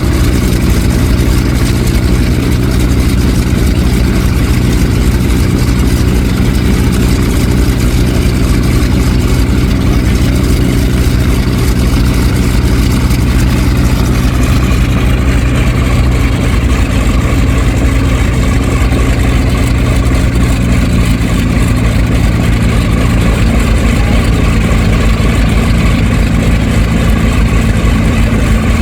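F4U Corsair's Pratt & Whitney R-2800 radial engine running steadily at low power, a loud, even low drone. About halfway through, the higher hiss in the sound eases off a little.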